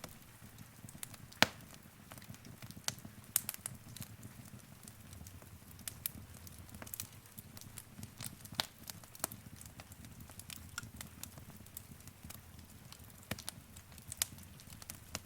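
Fireplace fire crackling: irregular sharp pops and snaps over a low steady rumble of the flames, with one loud pop about a second and a half in.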